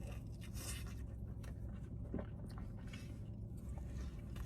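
Soft, wet eating sounds close to the microphone: small clicks and squishes of chewing and of handling a soft burrito with salsa.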